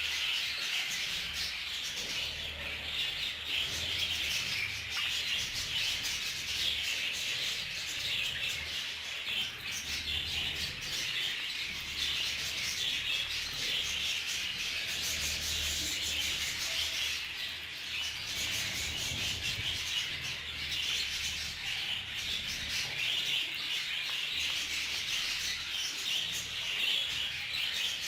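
A flock of budgerigars chattering and warbling continuously, a dense mass of overlapping chirps.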